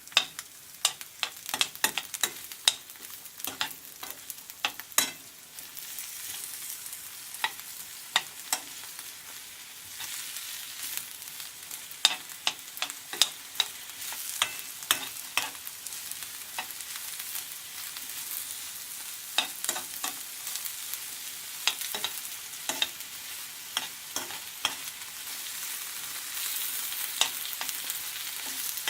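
Onions and tomatoes sizzling in hot oil in a frying pan while being stirred, the utensil clicking and scraping against the pan again and again. The sizzle is steady and grows a little louder near the end.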